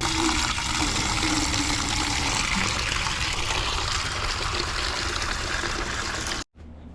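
Garden hose spray nozzle spraying water in a steady hiss, starting abruptly and cutting off about six and a half seconds in.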